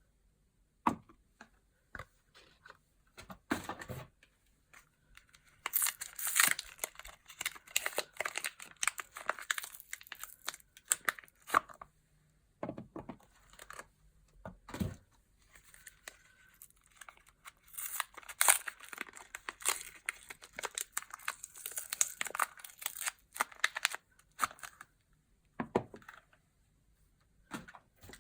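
Soap packaging being unwrapped by hand: wrappers crinkling and tearing in two long spells, with scattered clicks and short rustles between.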